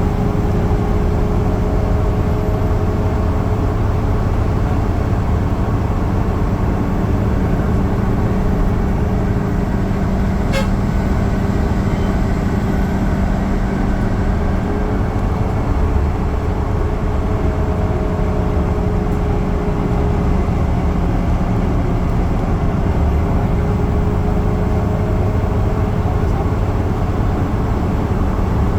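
Yutong bus running at high speed, heard from on board: a steady drone of engine, tyre and road noise, with one sharp click about ten seconds in.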